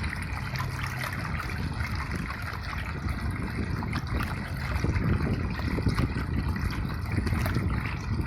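Water trickling and running steadily, with a low rumble underneath.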